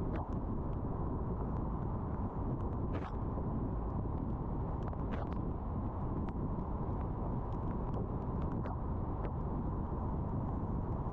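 Car driving on a rainy day: steady low road and engine rumble, with scattered light ticks over it, the clearest about three and five seconds in.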